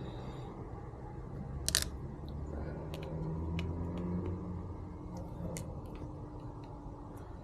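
Small clicks and handling noises of the shifter's metal retaining clip being worked back into place on the greased shift lever, with one sharper click about two seconds in and a few lighter ticks later, over a low steady hum.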